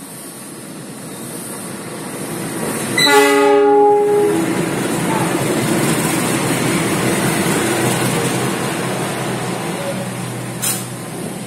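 Diesel locomotive horn blasts once for about a second, about three seconds in. Then the locomotive and its passenger coaches run past close by over the rails, with a sharp clack near the end.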